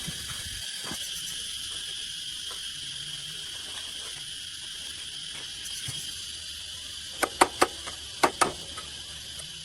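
Welding arc hissing and crackling steadily on steel, then about five sharp knocks in two quick groups near the end.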